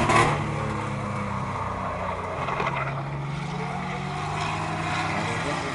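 Race trucks' engines running at speed on a short oval track, louder in a brief swell right at the start as one passes close, then a steady drone as they go on around the track.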